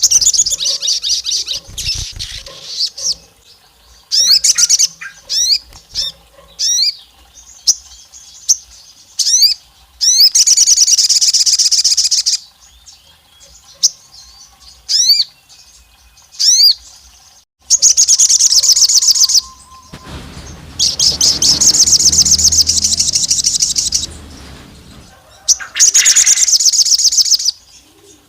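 Sogon bird singing: loud, sharp rising chirps mixed with long, fast rattling trills of two to four seconds each.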